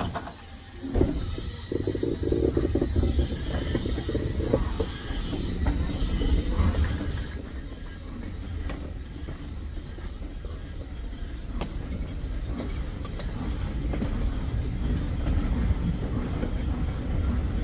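Heritage railway passenger coaches rolling along the track, heard from an open carriage window: a steady low rumble and rattle, loudest in the first few seconds, with occasional clicks of the wheels over the rail joints.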